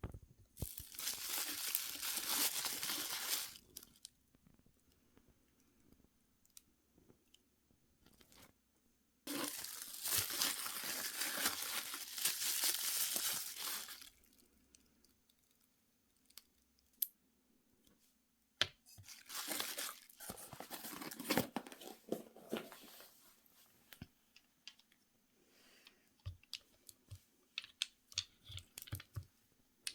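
Packaging being torn open and crinkled by hand, in three long stretches of a few seconds each, followed by scattered light clicks and taps.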